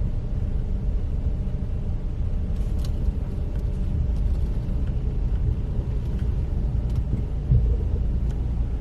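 Road and engine rumble of a car heard from inside the cabin while driving, steady and low. A brief louder low thump comes about seven and a half seconds in.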